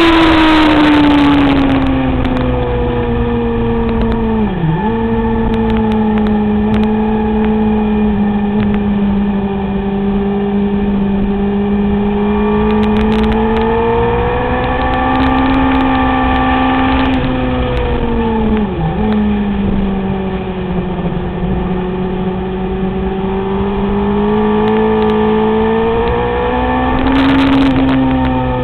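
Sport motorcycle engine running hard on a race track, heard onboard over rushing wind. The engine note drops over the first couple of seconds, then swells and eases gently, with two brief sharp dips in pitch, one about five seconds in and one near the middle.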